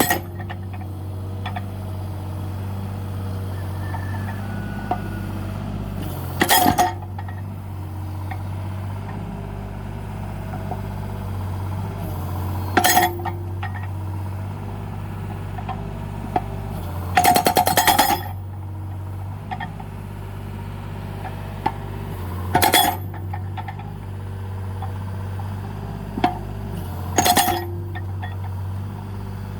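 Mini excavator's hydraulic breaker hammering into firewood logs in five short bursts of rapid blows, spaced roughly five seconds apart, the longest a little past the middle. Under them the excavator's engine runs steadily.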